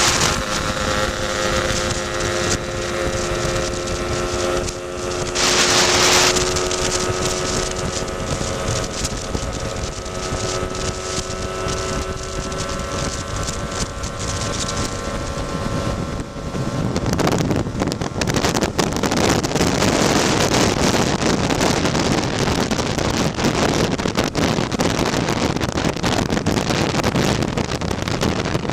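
Tuned Lambretta scooter's two-stroke single-cylinder engine running at a steady cruising speed, with wind buffeting the microphone. A short rush of noise comes about six seconds in, and from about halfway the wind noise grows louder and covers the engine.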